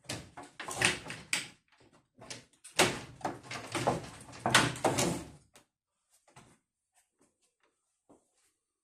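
Irregular clattering and knocking of hard parts being handled, dense for about five and a half seconds, then only a few faint scattered clicks.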